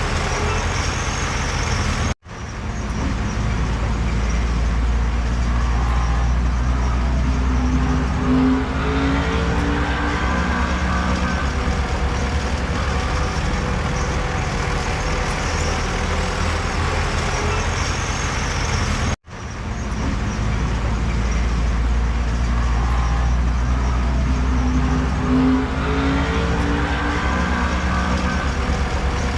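Heavy diesel earthmoving machinery running steadily under load, a deep engine rumble with a whine that climbs in steps now and then. The sound cuts out abruptly twice, about two seconds in and again past the middle.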